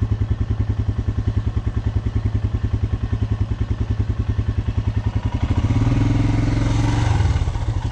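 Dual-sport motorcycle engine running at low revs with an even, loping pulse. About five seconds in, the throttle opens and it pulls harder with a steadier, higher note, then eases off near the end.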